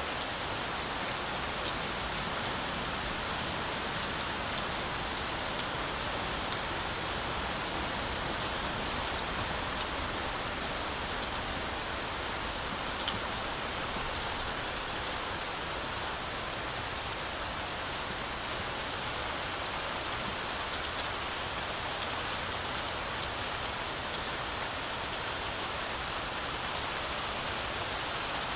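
Heavy rain falling steadily through a forest canopy, a dense, even hiss full of drops striking leaves, with one slightly louder drop tick about halfway through.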